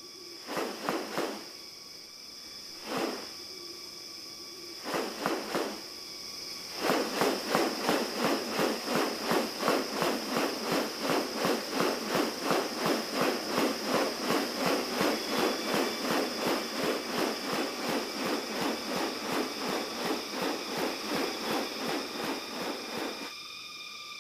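Rainforest ambience: a steady high-pitched insect drone. Over it, a few scattered rasping pulses give way, about seven seconds in, to a fast, even series of rasping pulses, about three a second, that stops shortly before the end.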